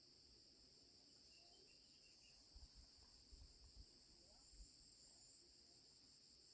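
Faint, steady, high-pitched insect chorus, with a few soft low knocks in the middle.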